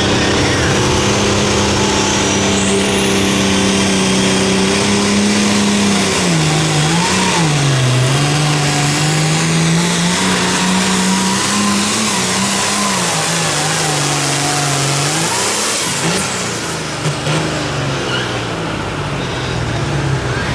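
Pulling vehicle's engine running at full throttle under the load of a pulling sled, with a faint high whine above it. Its pitch dips and recovers several times, then falls off about sixteen seconds in as the run ends.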